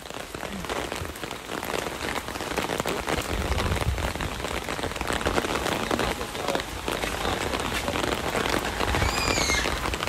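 Rain pattering on an umbrella overhead, the first drops of a thunderstorm shower, as a dense steady crackle that builds slightly. A brief high chirp sounds near the end.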